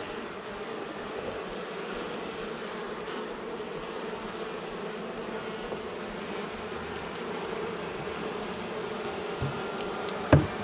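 Honey bees from a colony opened up in a house wall, buzzing in a dense, steady hum. Near the end, two short knocks.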